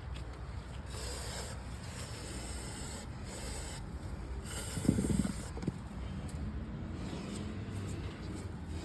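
Three short rubbing, hissing strokes, with a thump about five seconds in, over a steady low hum: hands wiping or cleaning parts during the tractor steering-ram and hose work.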